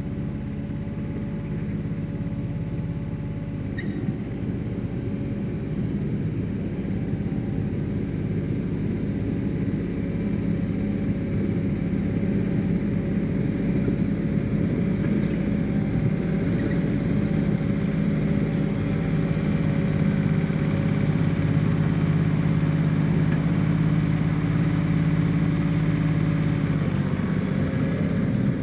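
1985 John Deere 1050 tractor's diesel engine running steadily, with a thin steady whine over the engine note, slowly growing louder.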